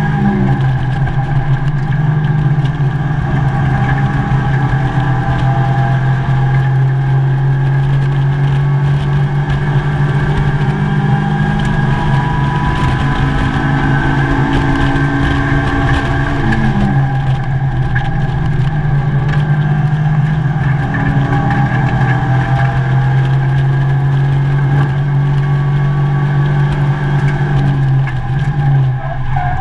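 Mazda MX-5 race car's four-cylinder engine running hard at racing speed, heard from inside the stripped, roll-caged cabin. The engine note holds steady, with brief shifts in pitch right at the start, about halfway through, and near the end.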